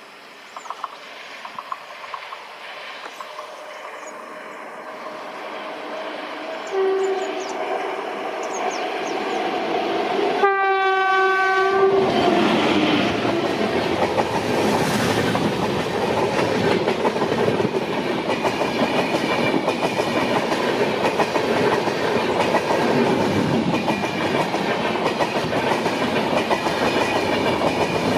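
Indian Railways WAP-7 electric locomotive approaching and sounding its horn, a short toot about seven seconds in and a longer blast about ten seconds in. The express then passes at speed, its wheels clattering over the rail joints.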